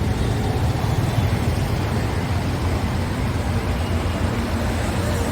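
Motorcycle riding at a steady pace: a constant low engine rumble under even road and traffic noise.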